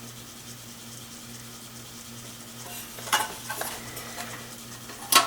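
Metal clicks and rattles from a desktop computer's case and drive hardware being handled, starting a little under three seconds in, with the sharpest clicks about three seconds in and again near the end, over a steady low hum.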